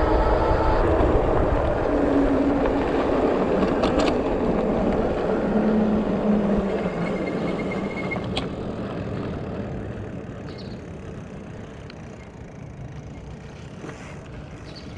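Street traffic: a motor vehicle's engine and tyre noise, loud at first and fading away over about ten seconds as its engine tone drops, with a couple of faint clicks along the way.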